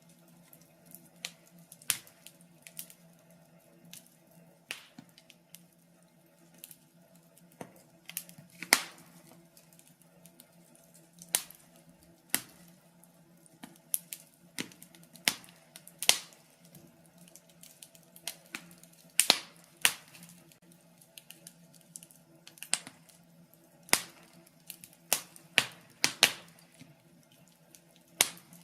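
Wood fire crackling in a fireplace: irregular sharp pops and snaps, with a few louder cracks here and there.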